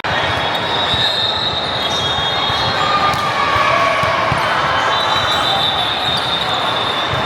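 Gym ambience during volleyball play: volleyballs being hit and bouncing on the hard floor, with scattered thuds over a steady din of voices in a large hall.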